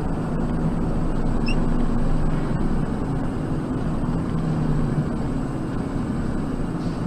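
Steady engine and road noise of a moving car, with a low steady drone from the engine.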